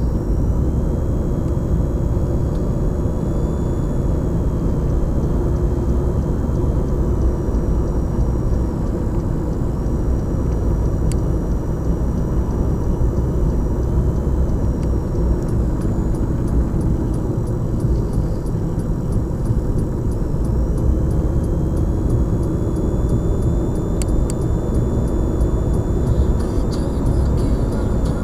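Blizzard wind blowing on the microphone: a steady, loud, low rumble of noise that never lets up.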